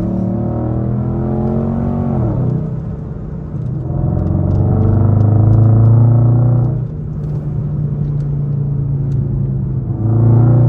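Straight-piped Infiniti M56 5.6-litre V8 exhaust droning while driving. The pitch falls about two seconds in, the engine pulls louder under throttle for a few seconds, eases off suddenly, then comes back on the throttle near the end.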